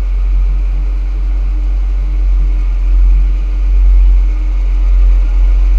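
Jeep Wrangler Rubicon driving on a dirt trail: a steady engine drone over a loud, deep rumble.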